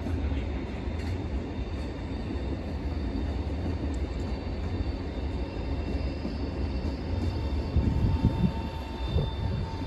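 Train running with a steady low rumble and a faint steady whine, with a few heavier thumps about eight seconds in.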